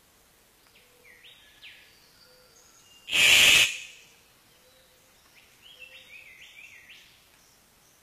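Birds giving short chirping calls in two bouts, with one loud harsh burst lasting about half a second around three seconds in.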